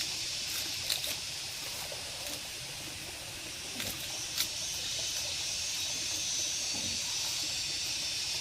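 Steady rush of running water, with a few faint sharp clicks.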